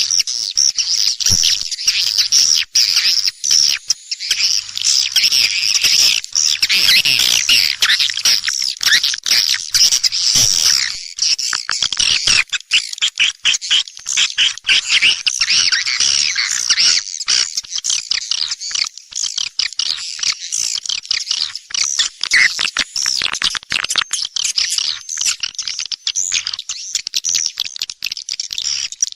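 Swiftlets (walet) twittering: a dense, continuous chatter of high chirps and clicks, as played to lure swiftlets into a nesting house.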